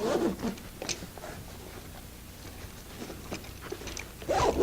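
Kayak seat straps being pulled tight: a short burst of strap and handling noise at the start and another near the end, with small clicks and rubbing in between.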